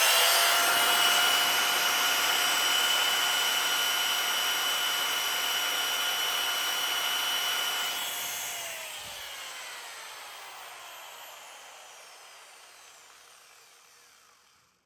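Angle grinder running at a steady full-speed whine. It is switched off about eight and a half seconds in, and its pitch falls slowly as the disc coasts down to a stop.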